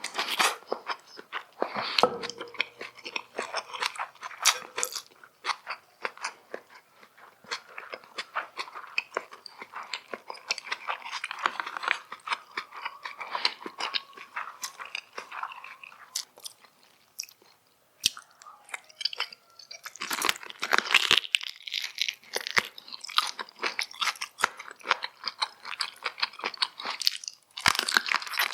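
Close-miked chewing and biting of a person eating, a dense run of quick wet clicks and smacks. It drops away briefly a little past halfway, then the chewing comes back louder.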